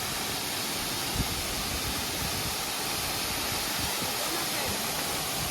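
Steady rushing roar of a waterfall, with one brief knock about a second in.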